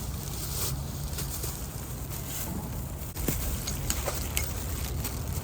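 Wind buffeting the microphone with a steady low rumble, with a few faint short knocks in the second half.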